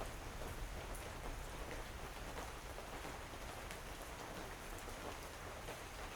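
Steady rain falling, with many small drop ticks over a continuous hiss and a faint low rumble.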